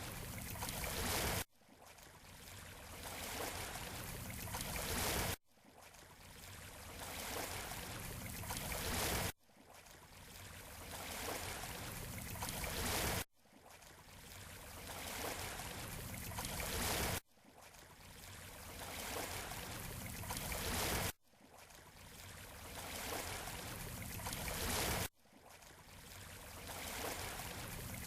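Surf washing on a beach shore: a short clip of wave noise played on repeat. Each pass swells over about four seconds and then cuts off abruptly before starting again.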